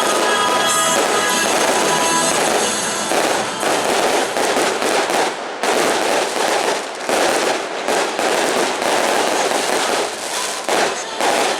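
Fireworks display going off in quick bangs and crackles over loud stadium music; the music is heard alone for the first few seconds, then the fireworks take over from about three seconds in.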